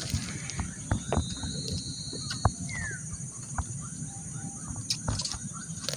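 A bird's long, slightly rising whistle about a second in, then a short falling chirp. Under them runs a steady high insect drone, with scattered small clicks and rustles from hands handling a caught eel.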